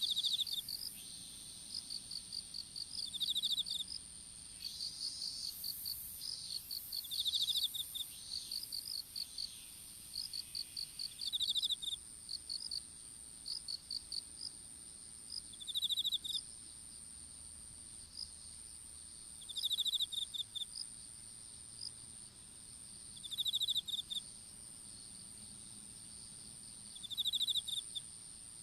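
Several insects calling together in a field: one holds a continuous high-pitched trill, another gives short rapid chirp trains, and a louder pulsed chirp repeats about every four seconds.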